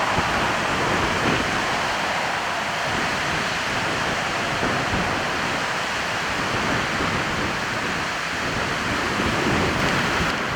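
Boeing 737-800's CFM56-7B jet engines at takeoff power: a loud, steady rushing noise with no clear pitch.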